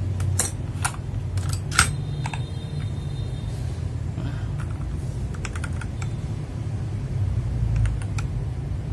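Scattered, irregular keystrokes on a mechanical keyboard with Kailh Box Brown tactile switches, single presses with a small burst about five seconds in, over a steady low hum.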